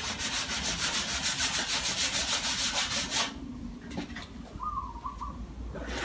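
80-grit sandpaper rubbed over hardened body filler on a dented metal panel, quick rhythmic back-and-forth strokes that stop about three seconds in: rough sanding of the cured filler. A short high chirp follows near the end.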